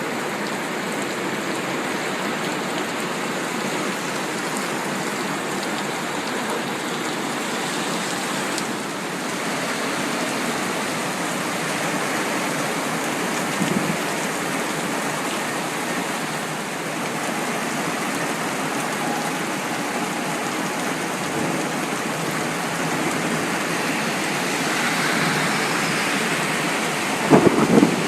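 Heavy rain falling in a steady downpour, with a few brief louder splashes or knocks near the end.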